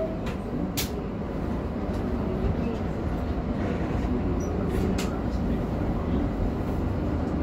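Cabin sound of a CAF FGV 3700 electric train running on the rails: a steady low rumble, with a sharp click about a second in and another about five seconds in.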